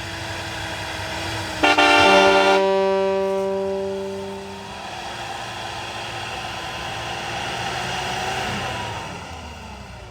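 Vehicle horn sounding one loud, short blast about two seconds in, its tone fading out over the next couple of seconds. A pickup engine runs underneath throughout.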